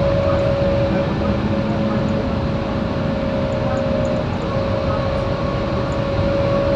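Scania K230UB single-decker bus under way, heard on board: its five-cylinder diesel engine and drivetrain run steadily with a constant high whine that dips briefly about four seconds in.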